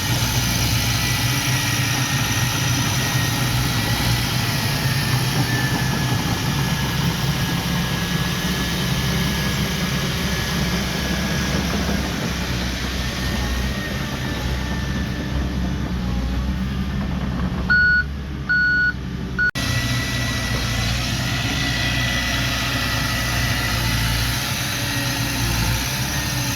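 Diesel construction machinery engine running steadily, with a faint thin whine over it. About two-thirds of the way through, a short run of beeps from a reversing alarm breaks in.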